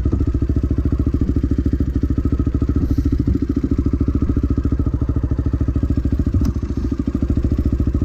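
Dirt bike engine idling steadily with an even, fast beat.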